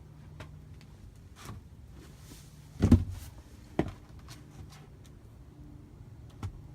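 A steady low hum with a loud thump about three seconds in, a sharper knock about a second later and a lighter knock near the end, plus a few faint clicks.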